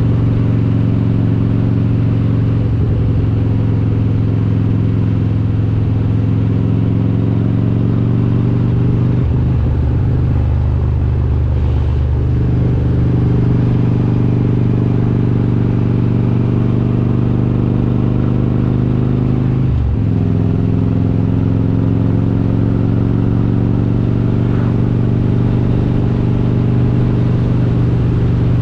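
Harley-Davidson Road King's S&S 95-cubic-inch V-twin with Super Stock heads running on the road at a steady cruise. Its note drifts slowly up and down and breaks briefly about 9, 12 and 20 seconds in before settling again.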